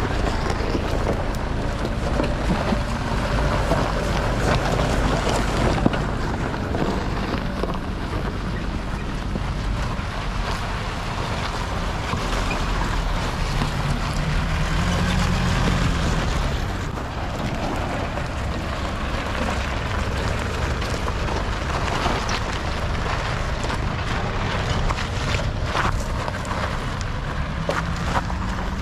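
Off-road 4x4 vehicle's engine running while driving, with wind noise on the microphone; the engine pitch rises and falls about halfway through and rises again near the end.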